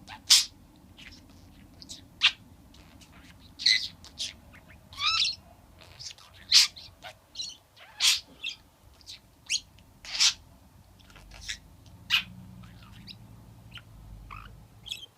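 Pet budgerigar (parakeet) chirping and chattering: a string of short, sharp calls, some with quick warbles, spaced irregularly about once or twice a second.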